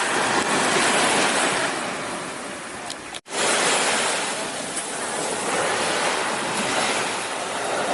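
Sea waves washing onto a beach: a steady rushing that swells and ebbs, cut off for an instant about three seconds in.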